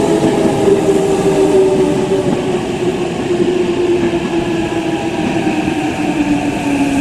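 Electric commuter train moving along the platform, wheels rumbling on the rails under a motor whine that falls slowly in pitch, the sound of the train slowing.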